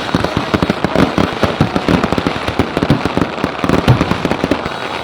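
Fireworks and firecrackers going off in a rapid, continuous crackle of many pops a second, with one louder bang just before four seconds in.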